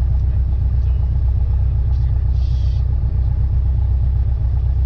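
Cessna 172N's four-cylinder Lycoming engine and propeller running steadily, heard as a loud, even low drone inside the cabin. A brief soft hiss comes about halfway through.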